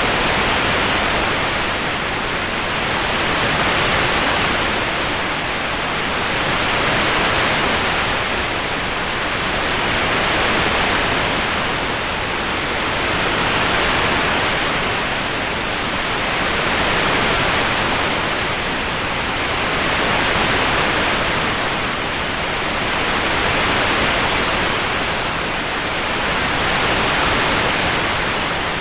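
Recorded rain-sound backdrop: a steady, even hiss of rain that gently swells and fades about every three and a half seconds.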